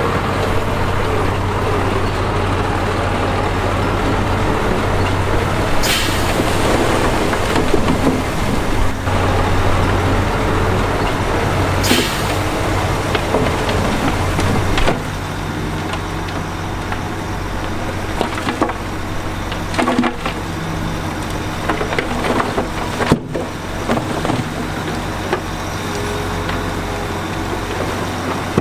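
Heavy diesel construction machinery running steadily, with two short hisses about six seconds apart, like air-brake releases. About halfway through the engine note changes and drops a little.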